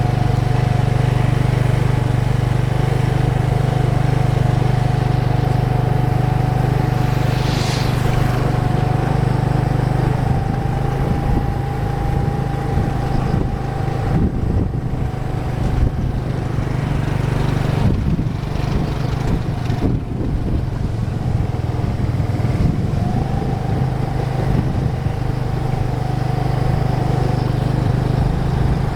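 A steady low engine-like hum with a faint steady whine above it, and a brief hiss about eight seconds in.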